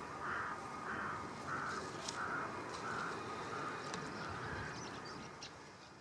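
A bird calling about seven times in an even series, roughly two calls a second, over steady outdoor background noise; the sound fades out near the end.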